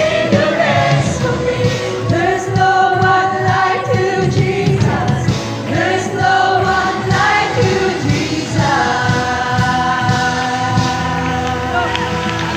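Youth choir singing a gospel song with a steady accompaniment beneath, ending on a long held chord near the end.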